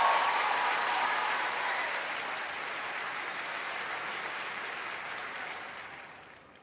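Audience applauding, dying away gradually and fading out near the end.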